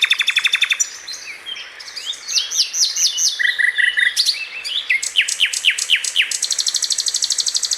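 Many caged pet birds chirping and calling over one another. Fast trains of short chirps open and close it, with a run of sharp falling calls in the middle.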